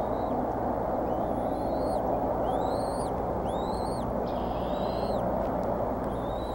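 A bird calling in a string of short, high chirps that rise and fall, about one to two a second, with one longer, flatter note midway. A steady rushing noise runs underneath.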